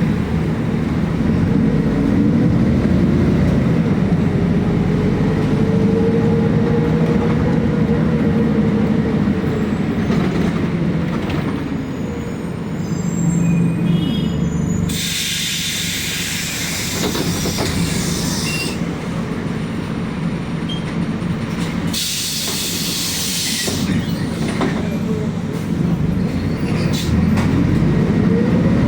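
City bus running, heard from inside: a steady engine and driveline drone, with a whine that rises and then falls over the first several seconds. Two loud hisses of compressed air come through, one about halfway through lasting a few seconds and a shorter one a few seconds later.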